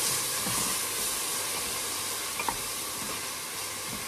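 Chopped vegetables shallow-frying in oil in pans on a gas stove: a steady sizzling hiss, with a wooden spatula stirring in a pot and a light knock about two and a half seconds in.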